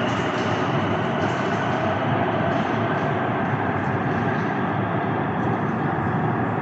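Tram pulling away and running on its rails: a steady rumble of wheels on track with a faint, even whine above it.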